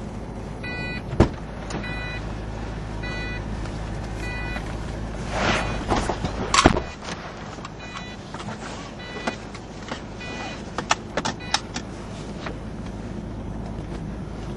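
Vauxhall Monaro V8 and road noise heard from inside the cabin on a downhill run. About six seconds in there is a louder surge with a knock, after which the deep engine drone drops away. A few short high chirps about a second apart and some light knocks sound over it.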